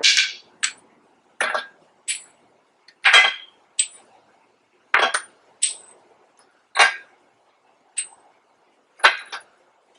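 Steel wheel lugs on a tractor's wheel hub being worked loose: about a dozen sharp, ringing metal clinks and clanks at irregular intervals, roughly one every half second to a second.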